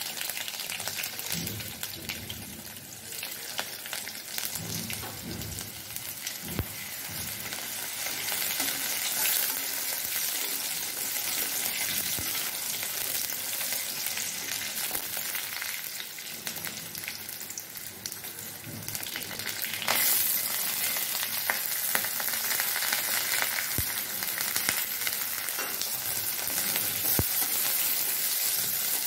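Crushed garlic sizzling in hot oil in a steel wok, stirred and scraped with a flat spatula that now and then knocks against the pan. The sizzle grows louder about two-thirds of the way through, as chopped onion and green chillies go in to fry.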